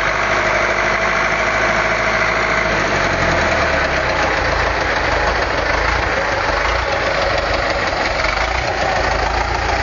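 Vehicle engine running steadily, with no revving or change in pace.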